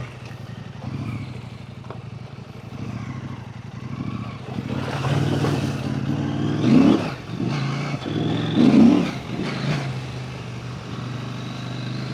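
Husqvarna Norden 901's parallel-twin engine running at low revs, then rising and falling in pitch twice as the throttle is worked, about seven and nine seconds in.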